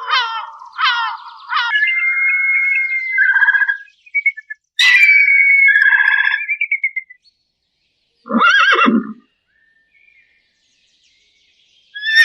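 A run of different animal and bird calls in separate bouts, with silent gaps between them: a few quick harsh calls at the start, a long whistled note, then two louder calls about five and eight seconds in.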